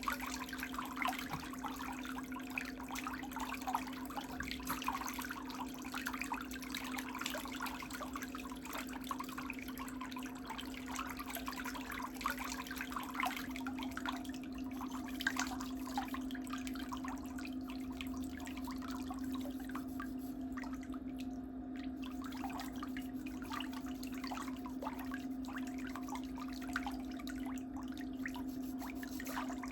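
Water trickling and dripping in small irregular splashes over a steady low hum, the splashing thinning out about halfway through.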